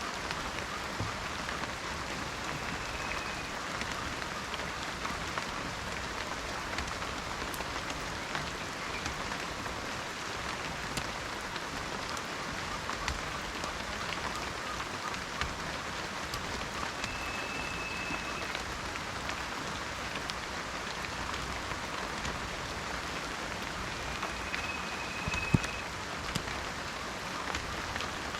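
Steady rain falling in a forest, an even hiss with many separate drops ticking. Three times a short, high, steady tone sounds through it. About 25 seconds in, one drop lands with a sharper knock.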